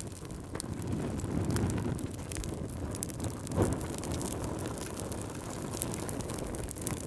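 Wood fire burning with a low steady rumble of flames and scattered sharp crackles and pops, one louder pop about halfway through.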